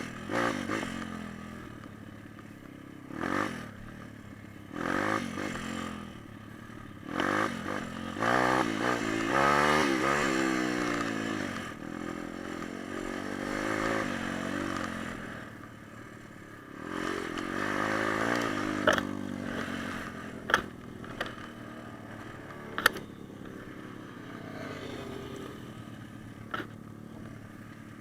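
Pit bike's small single-cylinder four-stroke engine revving up and down repeatedly, with short throttle blips at first and a longer rising and falling rev in the middle. Several sharp knocks come in the second half.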